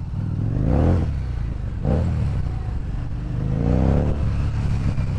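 Harley-Davidson Street 750's 749 cc V-twin engine accelerating in traffic, its pitch rising twice, about a second in and again near four seconds, with a short burst between.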